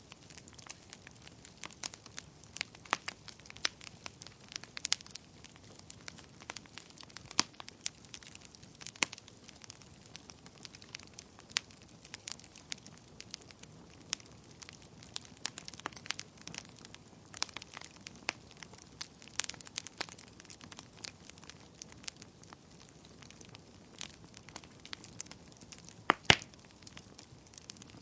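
Fire crackling in a fireplace: a low steady hiss with frequent irregular sharp pops and snaps. The loudest is a double pop near the end.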